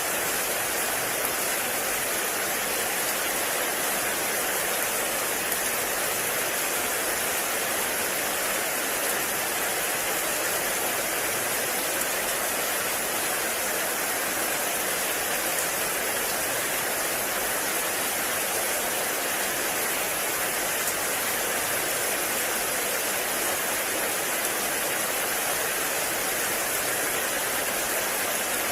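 Heavy rain falling steadily on a forest, a constant even hiss.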